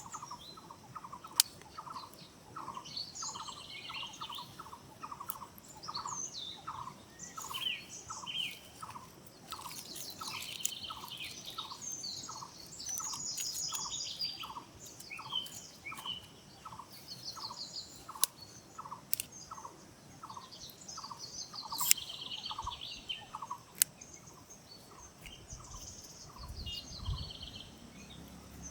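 Outdoor birdsong: one bird repeats a short single note about one and a half times a second, while other birds chirp and trill higher up. A few sharp clicks stand out, and a low rumble comes in near the end.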